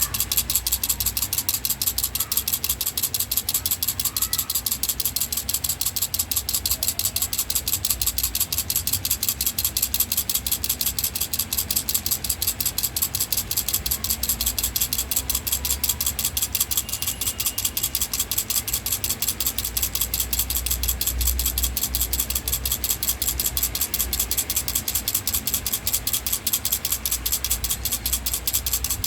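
Baby rattle shaken steadily, its beads clicking in a fast, even rhythm of several shakes a second without a break.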